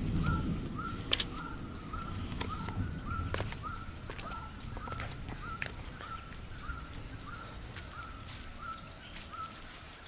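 A bird calling one short, clipped note over and over, a little over two a second, stopping near the end, with a few scattered clicks and a low rumble early on from the camera being handled.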